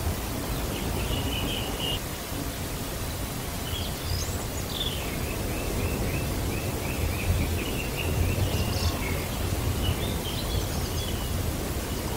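Steady hiss with an uneven low rumble, and faint bird-like chirps over it: short sweeping notes and a run of quick repeated notes.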